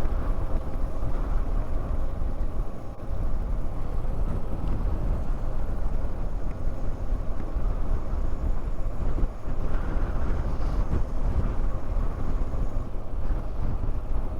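Wind rushing and buffeting over the helmet microphone, with tyre and road rumble, as a motorcycle coasts downhill with its engine switched off.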